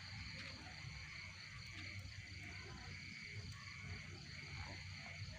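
Night insects, crickets or similar, chirping in a steady repeated pulse, over a low background rumble.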